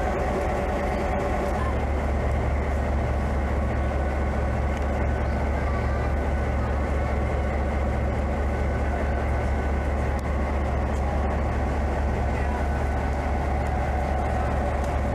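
Train running steadily: an even, continuous running noise over a strong low hum that does not change.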